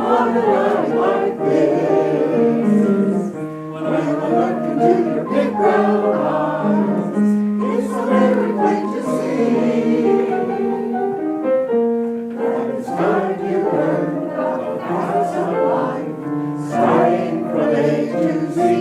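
A community choir singing in parts, with sustained chords that move from note to note.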